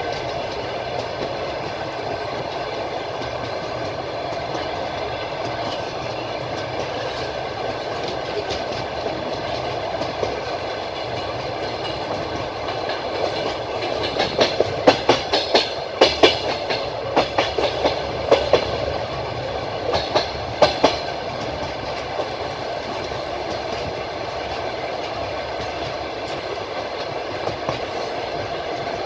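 Train rolling along the track with a steady rumble. Roughly halfway through, the wheels clatter in a quick run of sharp clacks, followed a few seconds later by a shorter group.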